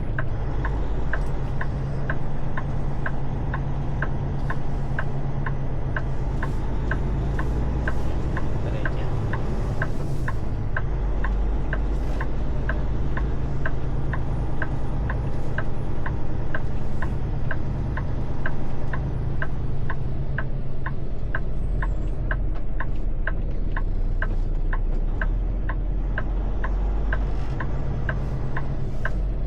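Truck engine idling with a steady low rumble, over a sharp regular clicking about twice a second.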